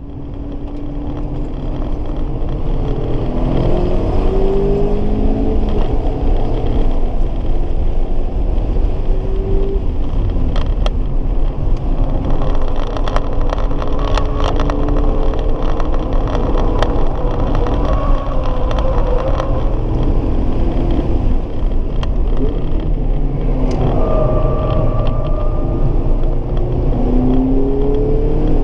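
Mazda Roadster ND5RC's 1.5-litre four-cylinder engine heard from inside the cabin at full pace on track, its pitch climbing again and again as it accelerates through the gears, over a heavy rumble of road and tyre noise. A scatter of sharp ticks comes through in the middle.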